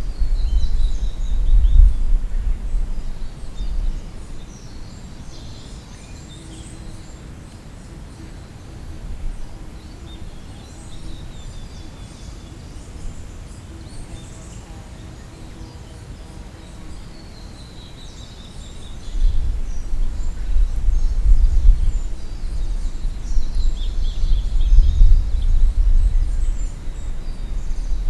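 Wild birds singing on and off, including several quick runs of notes that step downward in pitch, over a low, gusty rumble. The rumble is strong for the first few seconds, drops away, then returns for the last third.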